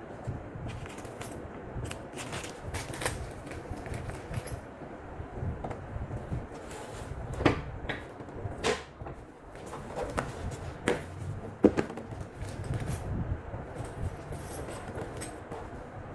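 Scattered clicks and knocks of things being handled, over a low rumble, with a few sharper knocks about halfway through and again near the end.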